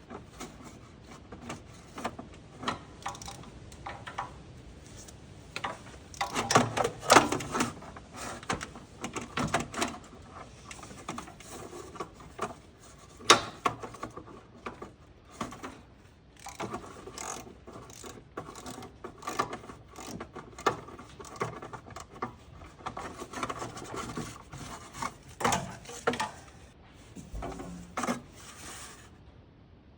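Hand ratchet with an extension and deep-well socket working a bracket bolt loose: irregular bursts of ratchet clicking and metal tools clinking, with one sharp knock about thirteen seconds in.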